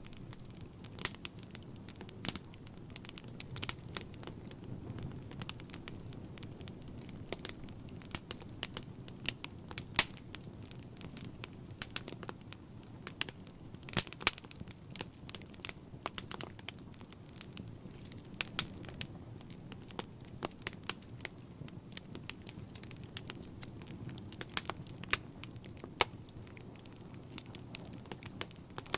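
Wood fire burning in a fireplace: a low steady rumble of flames with frequent irregular crackles and sharp pops from the burning logs.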